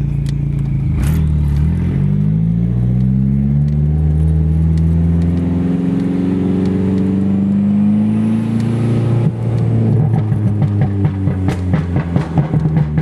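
Car engine accelerating, its pitch climbing steadily for several seconds, then dropping abruptly at a gear change about nine seconds in. After the shift the engine note turns uneven and pulsing.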